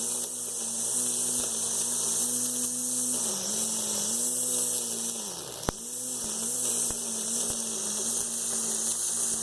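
Blender motor driving a homemade electric brush cutter, running fast with a steady whine and a high hiss. Its pitch dips again and again as it slows under load and then recovers. A single sharp click comes a little past the middle.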